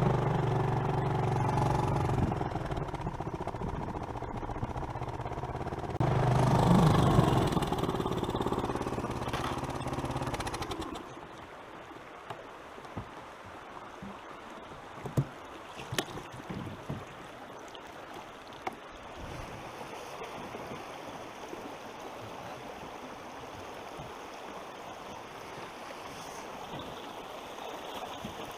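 Small outboard motor on a boat running steadily, louder from about six seconds in, then shut off about eleven seconds in. After it stops, flowing water from the rapids is heard with a few sharp knocks against the boat.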